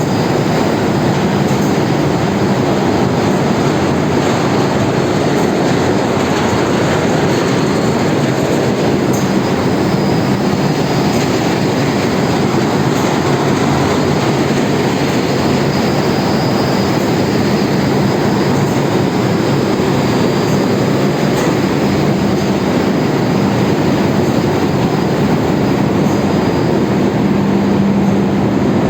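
Loud, steady din of running machinery in a tanker's engine room, a dense even roar with a low hum held underneath.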